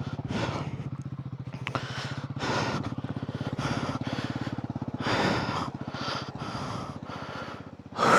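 Royal Enfield Himalayan 450's single-cylinder engine running at a steady low speed, its firing pulses even and unrevved.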